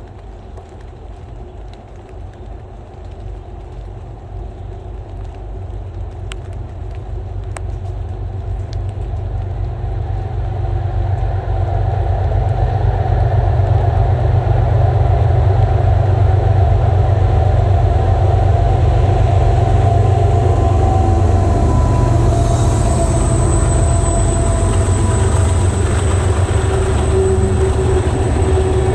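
BNSF freight train approaching on diesel locomotives: a low engine drone that grows steadily louder over the first dozen seconds, then stays loud as the locomotives pass close by and covered hopper cars roll past on the rails.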